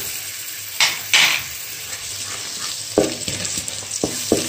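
Ginger-garlic paste sizzling in hot oil with frying grated onion as it goes into the pot, with two sharp loud flares about a second in. A spoon stirs it, knocking a few times against the metal pot near the end.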